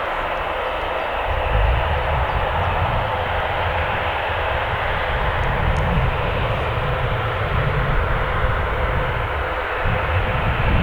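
A Boeing 737's CFM56 turbofan jet engines running at taxi power: a steady jet roar, with a deep rumble that comes in about a second and a half in and stays.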